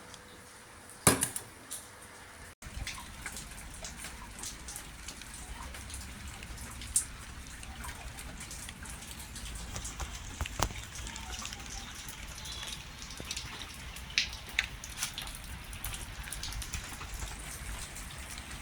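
Rain falling steadily, with scattered louder drops striking a hard surface, after a single knock near the start.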